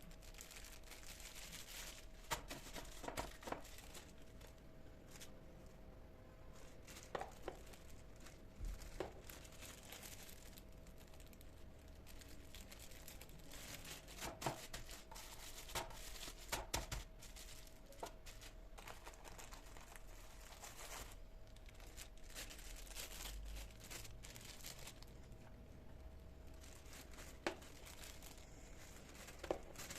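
Packaging crinkling and tearing, with scattered soft knocks and clicks of kitchen handling over a faint steady hum.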